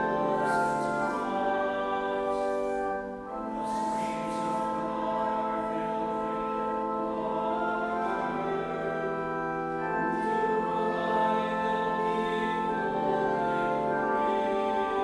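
Church congregation singing a psalm in unison, sustained notes moving in steps, accompanied by organ.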